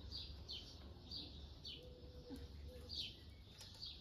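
A small bird chirping over and over: short, high, falling chirps about two a second, over a faint low background rumble.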